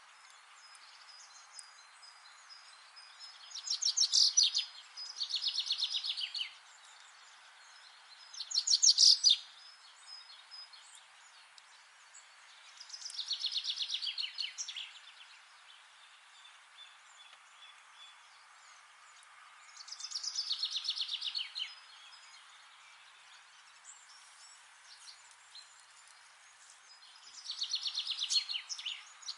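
A songbird singing short, rapid trilling phrases of one to two seconds each, about six in all, repeated every few seconds over a faint steady background hiss.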